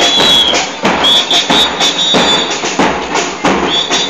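Murga percussion: bombos con platillo (bass drums with cymbals mounted on top) beating a dense, driving rhythm, with a whistle blowing warbling blasts over it, at the start, from about a second in, and again near the end.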